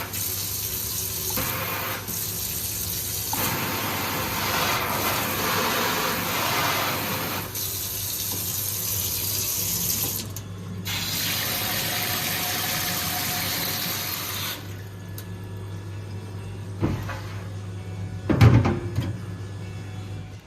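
Water running from a waterfall kitchen faucet into a sink, in several stretches with abrupt breaks between them. The flow stops about two-thirds of the way through, leaving a low steady hum and a couple of knocks near the end.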